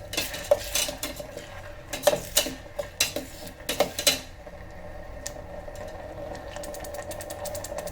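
A spoon stirring sauce-coated onion and capsicum in an electric kettle's metal pot, with irregular clinks and scrapes against the pot for about four seconds. Then it goes quieter, and a fast, even ticking builds near the end.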